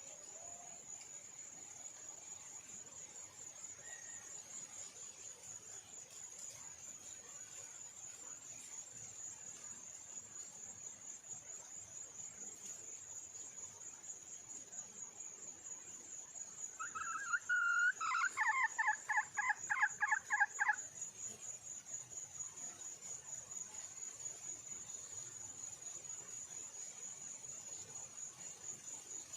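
Wild junglefowl hen calling: about two-thirds of the way in, one short note and then a rapid run of repeated clucking notes for about three seconds. A steady high insect trill runs underneath throughout.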